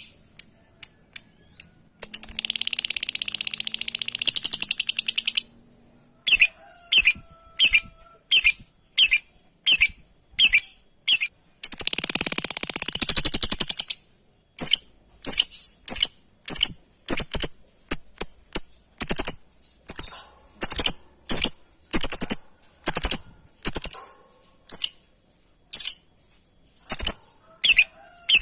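Lovebird calling: sharp, high-pitched chirps repeated roughly one to two a second, broken twice by a few seconds of rapid, continuous chattering, about two seconds in and again about twelve seconds in.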